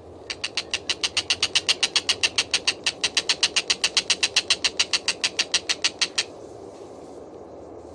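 A tengkek buto kingfisher calling: a long, fast, even series of loud, sharp notes, about seven a second, that stops abruptly about six seconds in. A steady low hum runs beneath.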